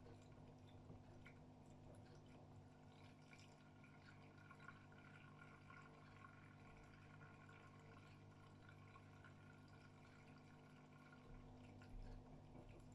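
Water running faintly inside a 2007 AEG Öko-Lavamat 76910 washing machine during its prewash, over a steady low hum. The water sound swells from about three seconds in and fades near the end.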